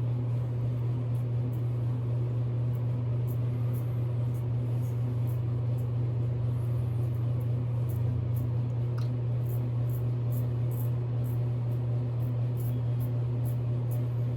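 A steady low hum fills the background, with faint short scratches of a double-edge safety razor drawn over stubble, about one to two strokes a second and coming faster in the second half.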